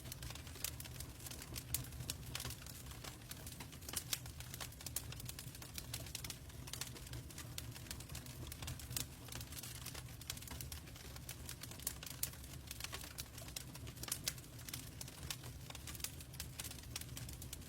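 Logs burning in a fireplace: irregular sharp crackles and pops, several a second, over a steady low rumble of the flames.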